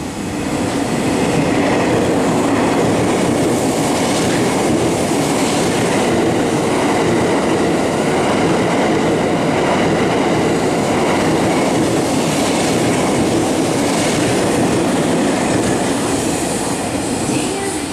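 E001 series 'Train Suite Shiki-shima' passing through a station at speed without stopping, its wheels running over the rails in a steady loud rush. The noise swells as the train reaches the platform and eases a little near the end as the last car goes by.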